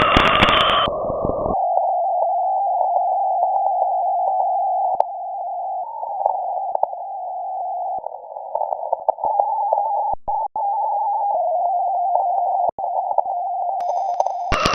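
Shortwave radio received through a WebSDR with a narrow CW filter: band hiss with a faint keyed Morse code tone coming and going. About a second in the wide audio band narrows to the filter, and it opens up again near the end.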